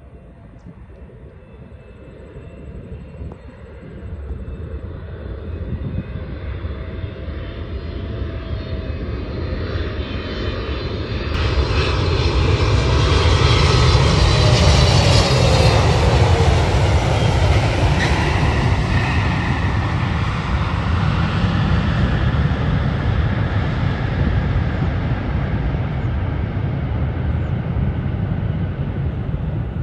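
Emirates Boeing 777-300ER jet engines growing steadily louder as the airliner approaches. About halfway through it passes, with whining engine tones sliding down in pitch, then a loud steady rumble carries on.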